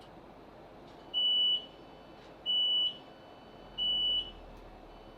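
Three short, steady high-pitched beeps about a second and a half apart from a Class 458 train's door warning, sounding as the train stands at the platform and its doors are released.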